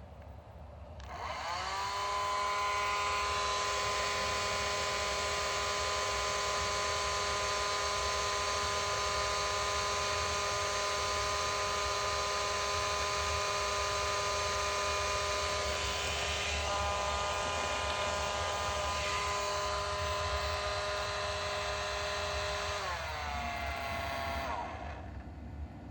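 Hair dryer running off a portable power station. The fan motor spins up about a second in, then runs steadily with a whine over a rush of air, and winds down with falling pitch near the end.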